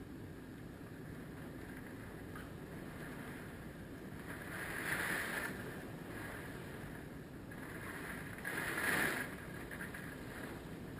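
Hurricane wind blowing steadily, surging in two louder gusts about four and eight seconds in.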